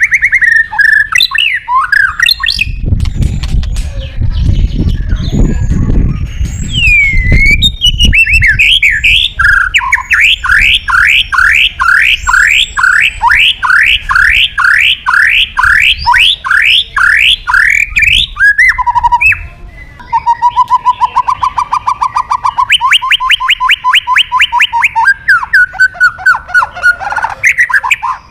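White-rumped shama (murai batu) singing a loud, varied song: a fast run of repeated rising whistles in the middle and a lower trill later on. A low rumble sits under the song for a few seconds near the start.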